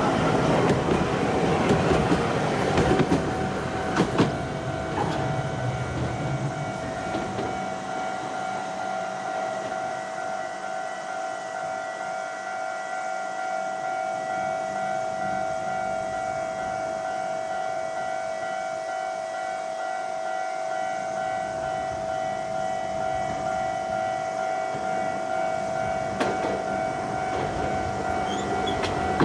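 Low-floor tram running on rails, with a steady high-pitched whine throughout and a heavier rumble and a few clicks in the first several seconds.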